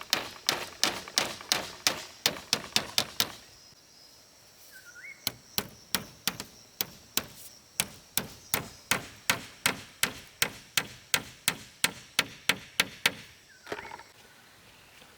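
Hand hammer striking in quick, steady blows, about three a second, in two runs broken by a pause of about two seconds.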